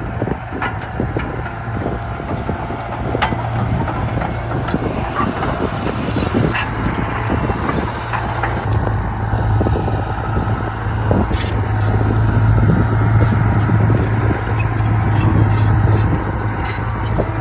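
Heavy diesel earthmoving machinery running steadily, with frequent short metallic clanks and rattles.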